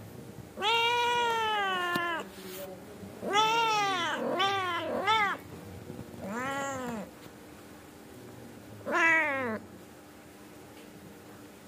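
A cat meowing six times. The first meow is long and drawn out, then come three quick meows in a row, then two shorter ones spaced a second or two apart.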